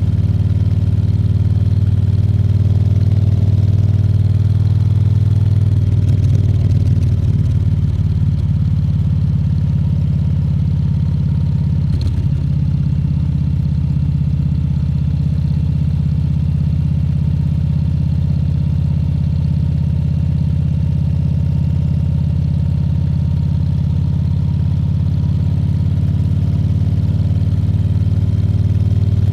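Harley-Davidson Fat Bob 114's Milwaukee-Eight 114 V-twin running at a steady pace, its note briefly wavering about six seconds in. There is a short sharp click about twelve seconds in.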